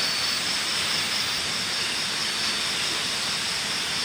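Steady rushing of water, an even hiss, with a steady high-pitched drone over it.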